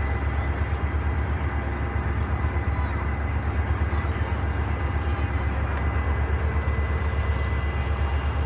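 Ferry engines running under way: a steady low drone with a fast, even throb.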